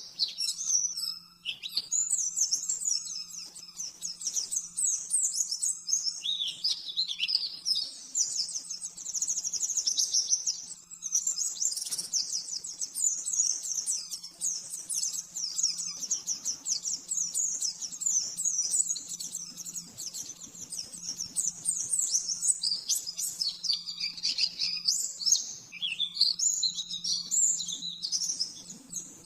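A white-eye (pleci) singing a long, rapid, high-pitched chattering song in fast runs of notes, with brief breaks every few seconds. A faint steady low hum runs underneath.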